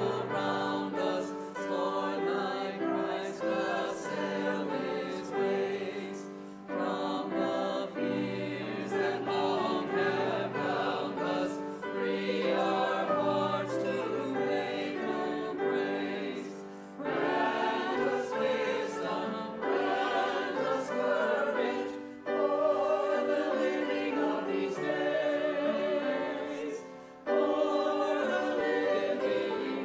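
A choir singing a hymn with accompaniment, phrase after phrase, with short breaks between the lines.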